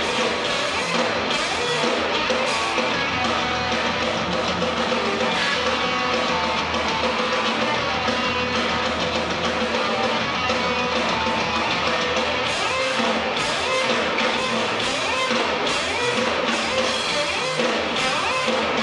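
Live band playing loud, dense noise rock: distorted electric guitar over drums, unbroken throughout.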